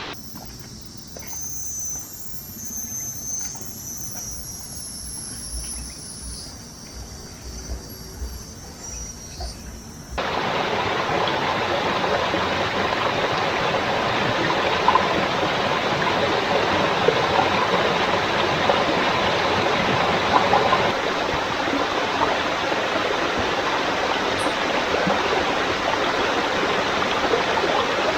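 Quiet outdoor ambience with a low rumble and faint high-pitched calls, cut off about ten seconds in by the steady rush of flowing stream water, which then runs on.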